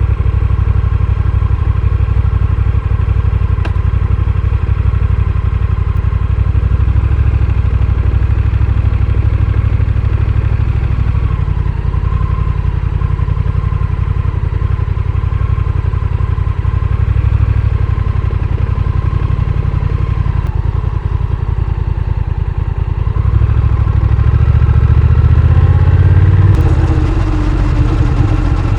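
Honda Rebel 1100's parallel-twin engine running under way. Near the end it grows louder and rises in pitch as it accelerates, then drops back.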